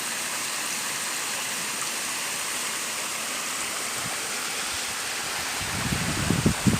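Steady rushing of a waterfall. Near the end, irregular low bumps come in over it and are the loudest thing heard.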